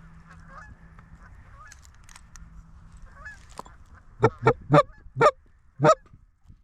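Geese honking: faint wavering honks from an approaching flock, then five loud, short honks close by, about four seconds in.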